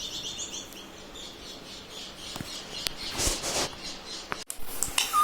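Indian ringneck parakeet giving a quick run of short, high chirps in the first second or so, followed by a brief rustle.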